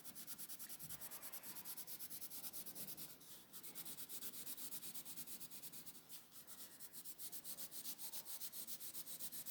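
Dark blue being coloured onto card in fast back-and-forth scribbling strokes, about eight to ten a second, with brief pauses about three and a half and six seconds in.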